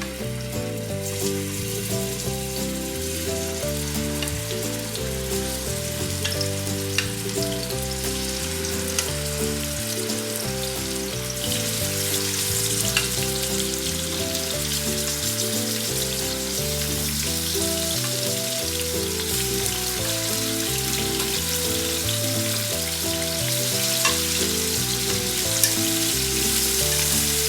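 Marinated chicken pieces sizzling steadily as they sear in hot sunflower oil. The frying grows a little louder partway through, with a few light spatters. Background music plays underneath.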